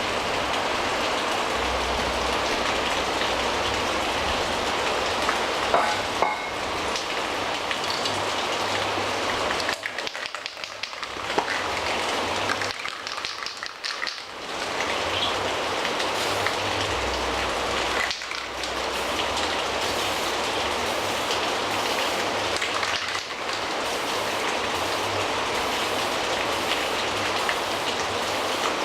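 Aerosol spray can of clear coat hissing in long continuous sprays, broken by short pauses a few times.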